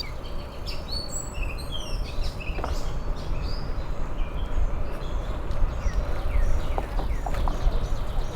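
Several small birds chirping and calling in quick, short notes, over a steady low rumble of wind on the microphone from riding a bicycle.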